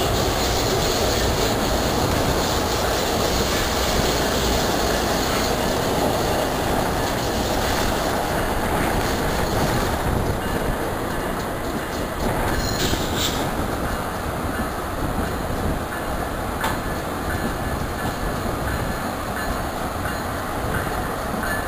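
Passenger train running on the track, heard at an open coach door: a steady rumble of wheels on rails, with a few sharp clicks about 13 and 17 seconds in.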